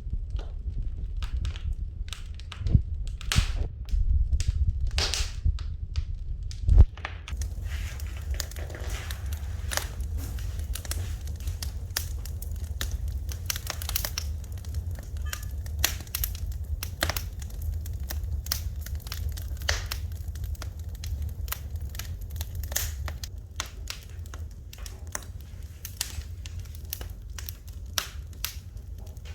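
Wood fire in a fireplace crackling, with irregular sharp pops over a low steady rumble; the loudest pop comes about seven seconds in.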